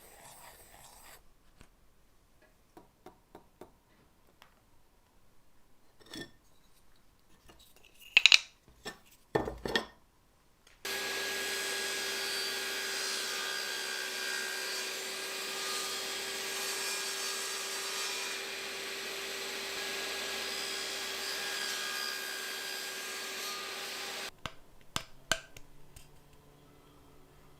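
Scattered light clicks and a few sharp knocks. Then, about eleven seconds in, a small motorised tool starts running steadily with a rubbing, abrasive noise and a steady hum, and it cuts off abruptly about thirteen seconds later.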